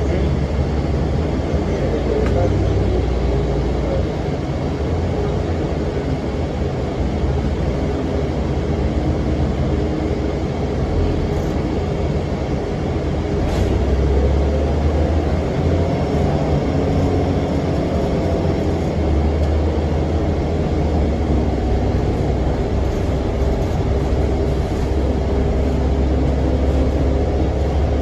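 Cummins ISM diesel engine of a 2006 NABI 40-foot low-floor transit bus running under way, with its engine cooling fan running, a steady low drone that swells with load about halfway through and again a little later. A single sharp click sounds about halfway through.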